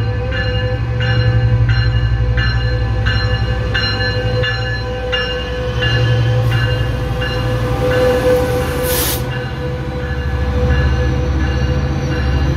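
Metrolink diesel passenger train moving past, its locomotive bell ringing about twice a second over the low rumble of the diesel engine. A short sharp hiss of air comes about nine seconds in.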